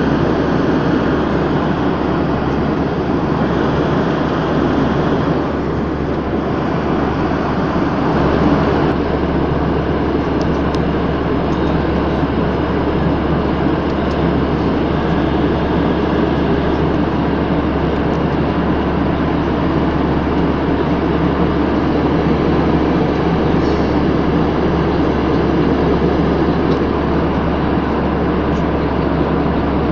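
Aircraft cabin noise in flight: a steady, loud drone of engines and rushing air with a low hum underneath, unchanging throughout.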